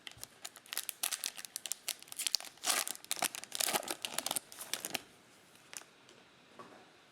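Plastic wrapper of a 2020 Mosaic football card pack being torn open and crinkled: a quick run of irregular crackles that stops about five seconds in.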